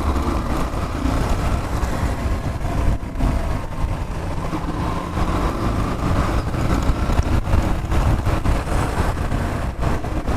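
Yamaha Fazer 150's single-cylinder engine running steadily while riding, with road noise.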